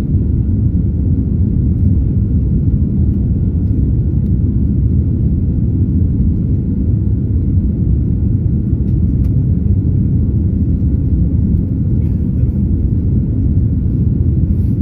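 Boeing 787 jet engines during takeoff: a steady low rumble that holds level throughout, with a faint steady whine above it.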